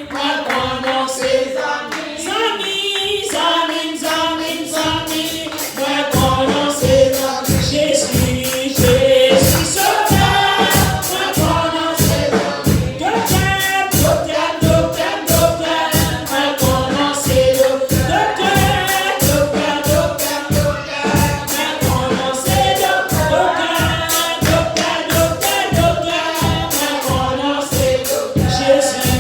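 A church choir or congregation singing a gospel hymn together, with held, swelling voices. A steady percussive beat, about two strokes a second, joins about six seconds in.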